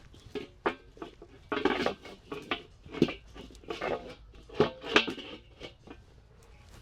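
Metal cooking pots and utensils clattering and scraping in an irregular run of knocks and clinks, some of them ringing briefly.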